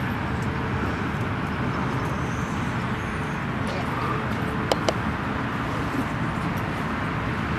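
Steady outdoor rumble and hiss with no clear tone, broken by two short clicks a little before five seconds in.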